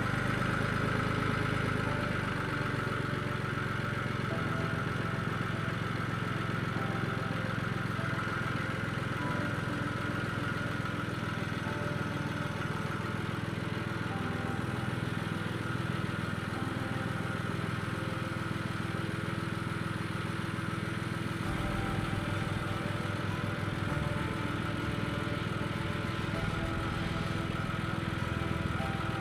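Tractor engine running steadily while the front-end loader works, with a shift in the engine note about three-quarters of the way through.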